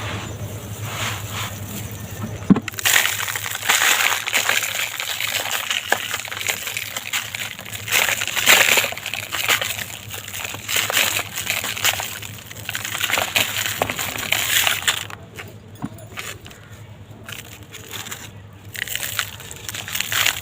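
Material being crumbled and crushed by hand, a run of irregular crunching and crackling with a sharp snap about two and a half seconds in and a quieter spell past the middle.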